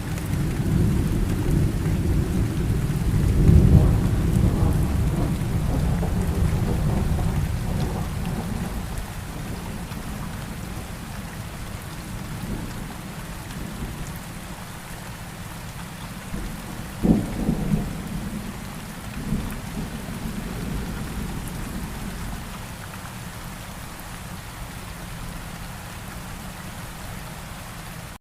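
Steady rain falling in a thunderstorm. A long low rumble of thunder swells over the first few seconds and fades out, then a short, sharper thunderclap comes a little past halfway, with a smaller one soon after.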